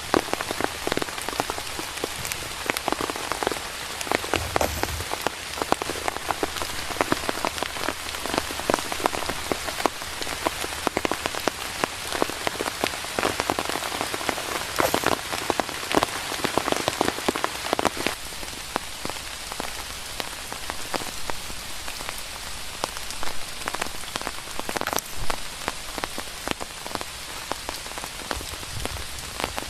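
Steady rain, with many sharp drops striking close by, a little lighter in the second half.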